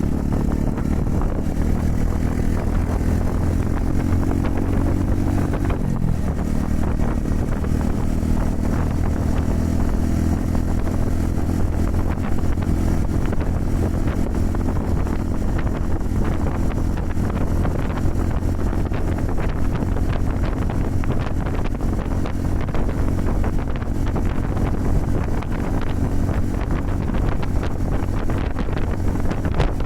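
Honda Super Cub 110's air-cooled single-cylinder four-stroke engine running on the move, its note rising over the first seconds with a change in engine note about six seconds in, then holding steady. Strong wind buffets the microphone throughout.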